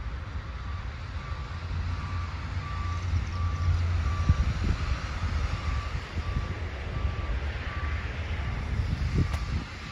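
Low rumble of an approaching train, swelling to its loudest about four seconds in and then easing, under a short electronic beep that repeats about twice a second.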